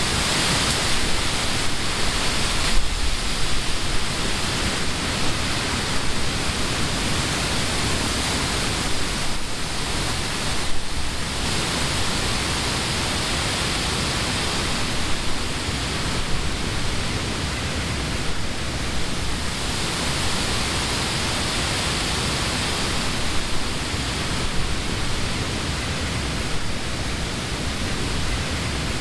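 Wind blowing through trees, a continuous rushing of leaves that swells and eases every few seconds.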